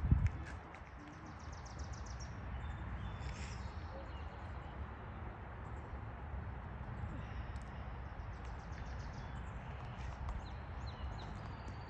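Quiet outdoor ambience: a low steady rumble with birds chirping in short rapid trills now and then, and a single thump right at the start.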